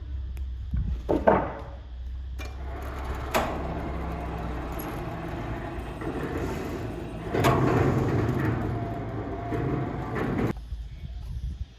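Sawmill machinery at work, most likely a saw cutting through a teak log. A steady low motor hum is heard first, then a dense noisy cutting sound that grows louder in the second half and stops abruptly about ten seconds in.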